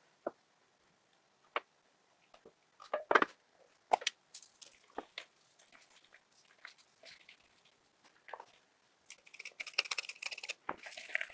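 Kitchen handling sounds while raw chicken fillets are seasoned in a pot: scattered clicks and knocks with some soft squishing, then a few seconds of crackly rustling near the end.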